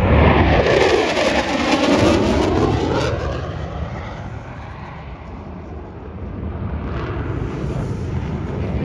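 EA-18G Growler jet's twin General Electric F414 engines passing low and fast, the jet noise sweeping down in pitch as it goes by, then fading and swelling again near the end.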